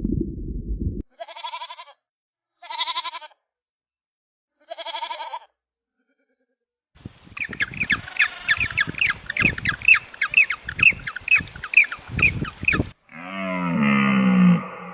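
A series of animal calls from several clips: three short high calls with gaps between them, then a fast run of chirping calls about four a second with low thumps beneath, then a lower drawn-out call that falls in pitch near the end.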